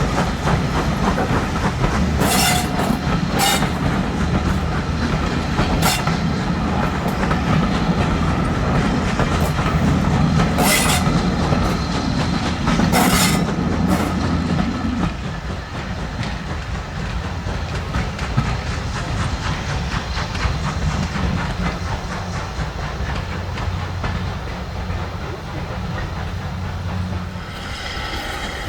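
Steam-hauled train running on the line, with a steady rumble and wheels clattering over the rail joints, and several short sharp bursts in the first half. The sound drops somewhat about halfway through, and a high-pitched ringing tone begins near the end.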